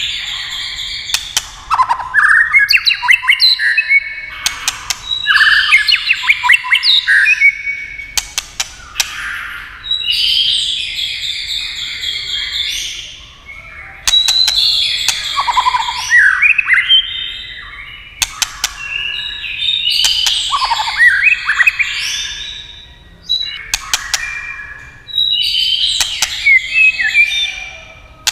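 White-rumped shama singing: loud, varied whistled phrases that come in bouts a few seconds apart, with sharp 'tack' clicks scattered between and through the phrases.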